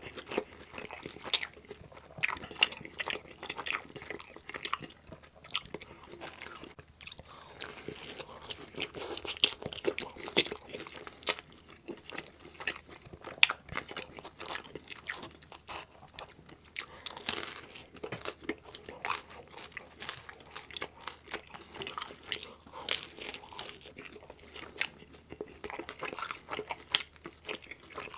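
Close-miked chewing and biting of pizza: steady crunching and wet mouth clicks of crust and meat toppings being chewed, many small crackles a second.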